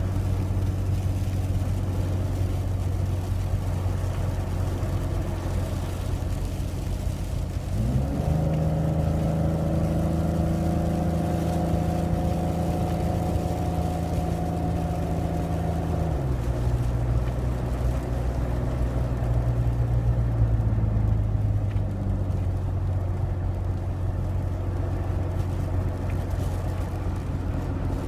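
Car running on the road: a steady low engine hum with road noise. About eight seconds in, the hum rises quickly in pitch and holds higher for about eight seconds, then drops back sharply.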